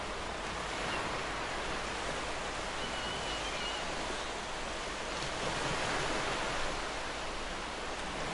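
Sea waves breaking and washing up a beach: a steady rush of surf that swells a little about two-thirds of the way through.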